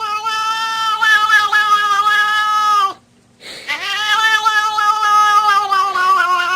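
Cat yowling: two long, drawn-out calls of about three seconds each, held at a fairly steady pitch with a slight waver, with a short break between them.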